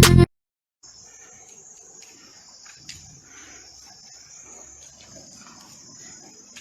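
Loud music cuts off abruptly just after the start; after a brief silence, insects chirr faintly and steadily in a continuous high-pitched drone, with a few faint clicks.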